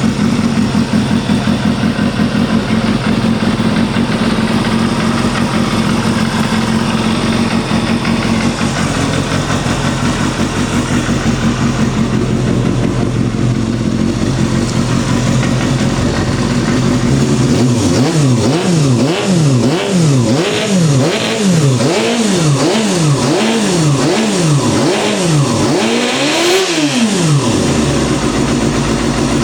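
Suzuki GSX250FX (Balius II) 250 cc inline-four motorcycle engine through an aftermarket RPM exhaust, idling steadily and then revved in quick throttle blips about once a second for the last dozen seconds, with one higher rev near the end.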